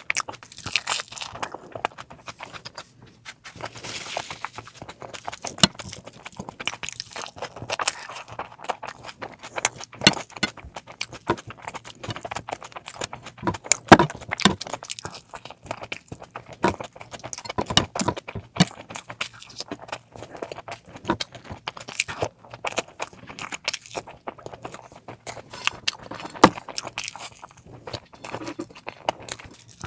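Close-up eating sounds of a person eating curry: chewing, smacking and many short irregular clicks and clinks as the food is handled. One sharp click about halfway through is louder than the rest.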